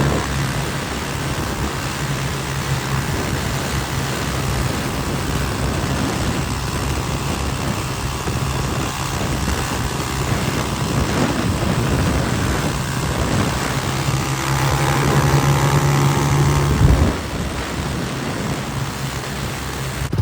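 Motorcycle engine running steadily while riding, with heavy wind noise on the microphone. The engine eases off about three-quarters of the way through.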